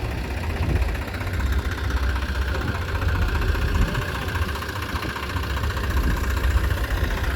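Diesel engine of heavy machinery idling steadily, a low, even rumble.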